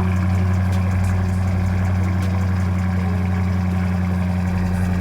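Car engine idling steadily with a loud, even low hum.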